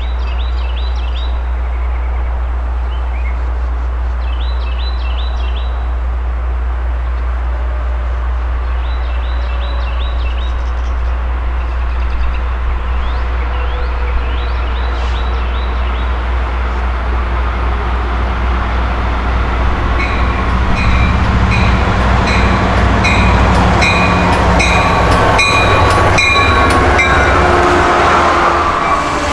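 Long Island Rail Road train with a DM30AC dual-mode locomotive coming into the station: a steady low rumble that grows louder, and about two-thirds of the way through a bell starts ringing in even strokes, roughly one and a half a second, as the train draws near.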